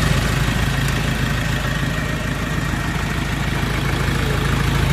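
Mahindra Scorpio S5 BS6 diesel engine idling steadily.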